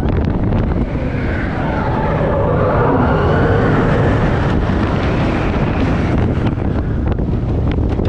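Wind buffeting the microphone over the rumble of a roller coaster train running along its track. A wavering higher sound rises about a second in and fades out about six seconds in.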